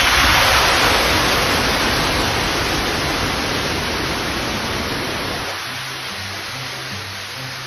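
A loud rushing hiss that starts suddenly and slowly fades over about five seconds, over background music with a low beat.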